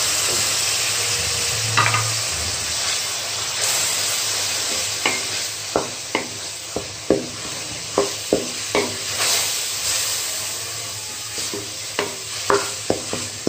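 Grated onion, garlic-ginger paste and freshly added tomato paste sizzling in hot oil in a metal pan. A cooking spoon stirs through it, knocking and scraping against the pan bottom as a string of sharp clicks in the second half.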